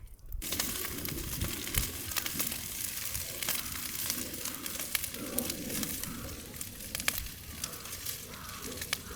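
Food sizzling and crackling in a hot pan. The sizzle starts suddenly about half a second in, as the food goes into the pan, then keeps up a steady hiss dotted with small pops.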